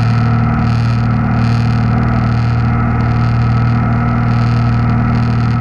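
Cabin drone of a 1960 Cessna 172's six-cylinder engine and propeller at climb power just after takeoff: a loud, steady, unchanging hum.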